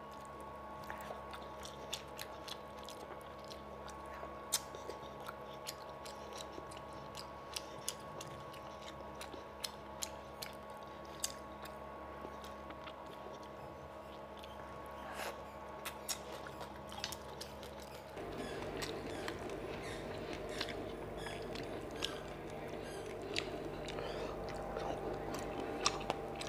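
Close-up eating sounds of a person chewing fish curry and rice, with scattered soft wet clicks and smacks, over a steady low hum. About two-thirds of the way through, a louder steady background noise comes in.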